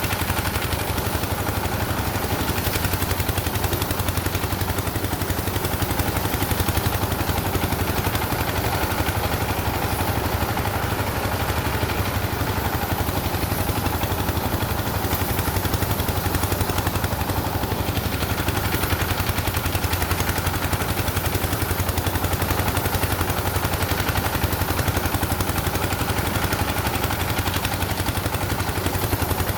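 An engine running steadily at a constant speed, with a rapid, even chatter of firing pulses and no change in pace.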